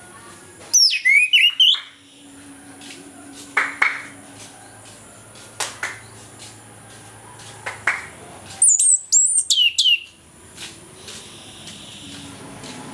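Chestnut-capped thrush (anis kembang) singing its full song. Two quick phrases of sweeping, falling whistles come about a second in and again about nine seconds in, with short single notes between them.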